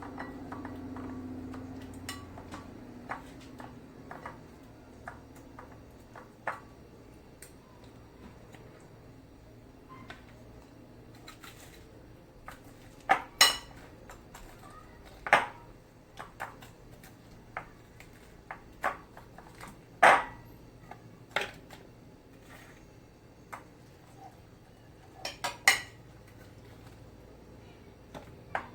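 Scattered clinks and taps of a utensil against a pan and dishes as barbecue sauce is basted onto fried chicken. The loudest are a few sharp knocks in the second half.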